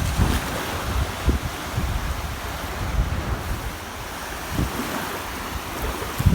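Ocean waves washing on a shore: a steady surf wash with a low rumble that ebbs a little in the middle and swells again near the end.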